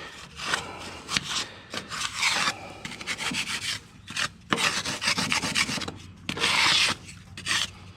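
A piece of wood scraping caked, wet grass clippings off the underside of a lawnmower deck, in repeated uneven scraping strokes; the longest and loudest stroke comes late.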